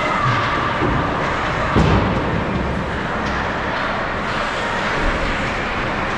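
Steady ice rink noise during a youth ice hockey game, with a single thump about two seconds in.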